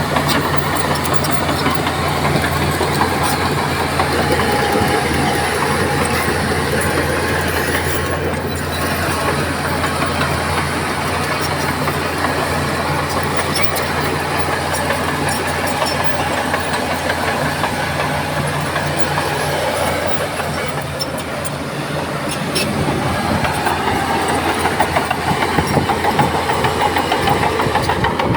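Heavy diesel engine of earthmoving machinery running steadily under load, easing off briefly about three quarters of the way through and then picking back up.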